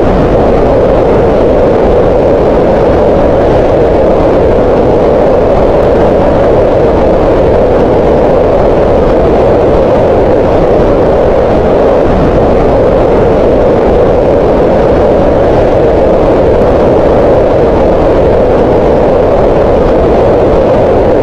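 Green noise: a steady, loud rush of synthetic noise weighted to the middle tones, with little treble and no change in level.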